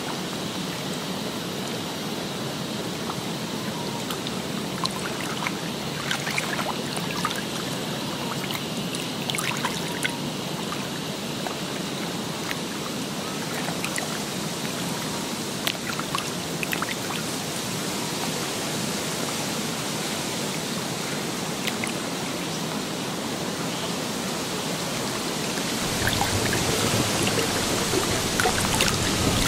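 Steady running, trickling water with scattered small drips and splashes. About 26 seconds in it turns louder, with more low rumble.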